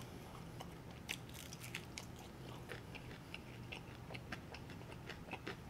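A person chewing a mouthful of chicken wing close to the microphone: faint, wet mouth clicks and small crunches, many irregular ticks.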